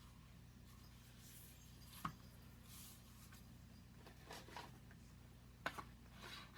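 Near silence with a few faint handling sounds of an eyeshadow palette: one sharp click about two seconds in, then light clicks and rustles near the end.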